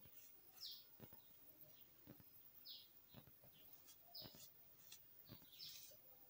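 Near silence with faint bird chirps, short high notes about one every second and a half, and faint soft clicks in between.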